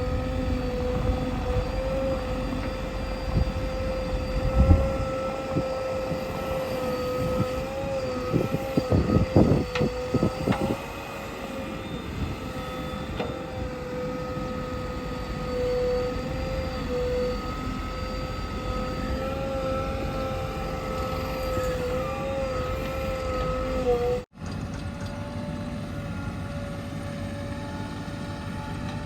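Heavy earthmoving machine engine running with a steady, slightly wavering whine. A knock comes about four seconds in, and a cluster of loud knocks and clanks follows a few seconds later. Near the end the sound briefly cuts out and returns at a slightly higher pitch.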